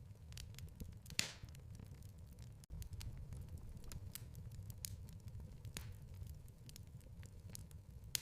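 Wood fire crackling in a fireplace: irregular small snaps and pops over a steady low rumble, with one louder pop about a second in.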